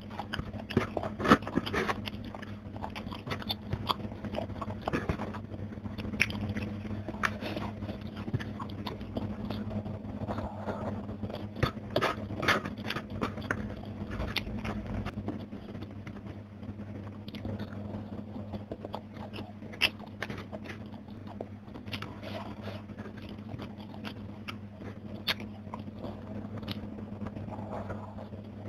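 Close-up chewing and crunching of crispy fried fish and rice eaten by hand, many short crackles and wet mouth clicks, with a steady low hum underneath.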